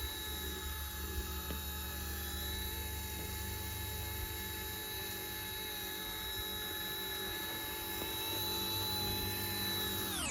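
Eachine E120 RC helicopter's small electric motors and rotors running with a steady high-pitched whine.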